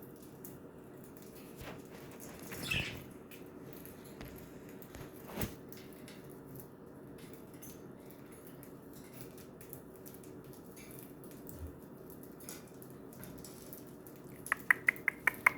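Pet budgerigars moving about, with a few soft rustles and taps, then near the end a rapid run of about eight sharp, loud calls in about a second.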